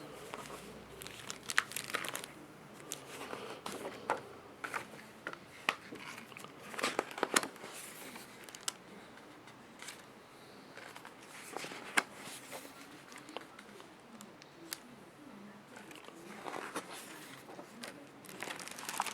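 A book being handled and opened, with irregular crinkling and rustling of paper or a plastic cover and scattered sharp taps and clicks.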